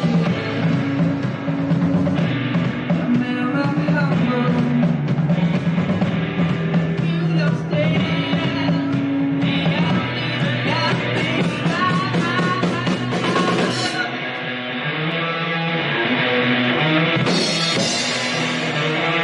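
Rock band playing live: drum kit, bass and guitars, with singing.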